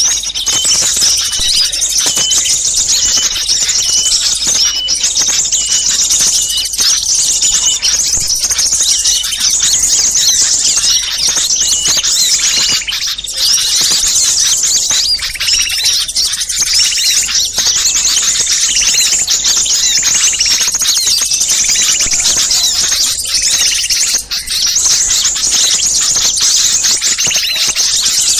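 Bird-lure recording of many small birds calling at once: a dense, unbroken clamour of high chirps and trills, the noisy flock sound used to draw wild small birds in.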